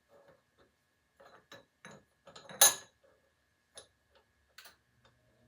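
Scattered light clicks and taps of small metal parts being handled, with one sharper metallic clink about two and a half seconds in.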